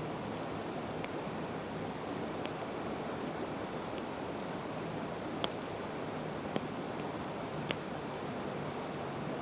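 Campfire of split evergreen wood crackling, with about five sharp pops, over a steady rushing background from the river. A high, even chirping about twice a second runs alongside and stops about seven seconds in.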